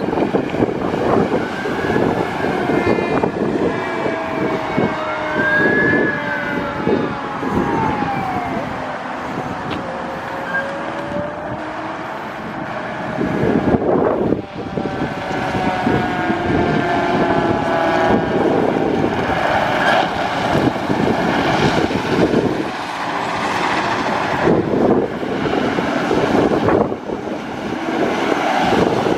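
Fire trucks responding under a Federal Q mechanical siren, which winds up and then falls away slowly several times over the rumble of engines and road noise.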